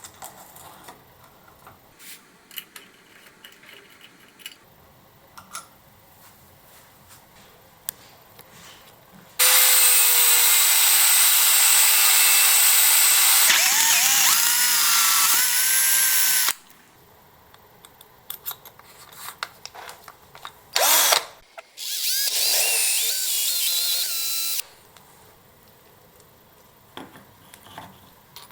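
Power drill running in a long burst of about seven seconds, its motor whine sagging and wavering in pitch under load, then a short blip and a second burst of about two and a half seconds. Light clicks and handling noises come between the bursts.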